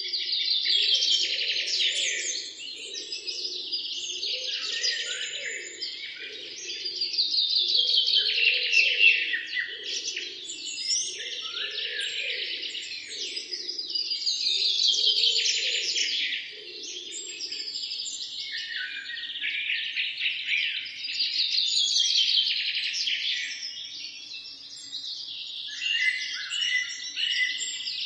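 A dense chorus of many small songbirds chirping and trilling at once, with no let-up. Underneath, a lower sound pulses about once a second for roughly the first half, then fades.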